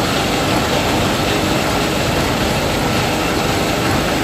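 Combine harvester running while harvesting paddy, a steady mechanical din of engine and working machinery.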